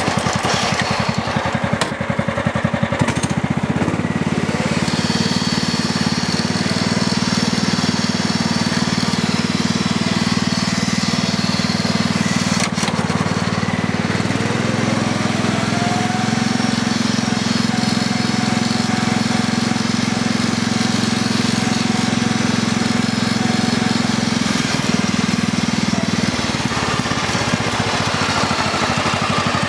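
Kubota racing lawn tractor's engine running steadily under load while driving, the engine note changing a few seconds in and again near the end. About halfway through a whine rises in pitch and then holds.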